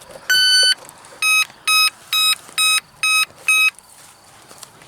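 Electronic speed controller of an electric RC plane's brushless motor sounding its power-up tones: one long beep, then six shorter beeps about two a second. The six beeps are the usual cell count for the 6-cell battery just plugged in, and the tones mean the controller has armed.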